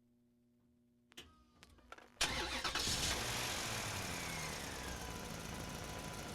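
A few sharp clicks, then about two seconds in an engine starts suddenly and keeps running, with a faint falling whine.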